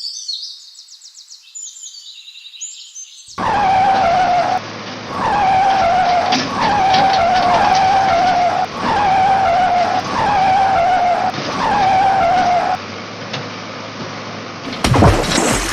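Looped vehicle skidding sound effect: a pitch that dips and then holds, repeated in six near-identical stretches of about a second and a half, after a few seconds of faint high chirps. A loud crashing noise starts near the end.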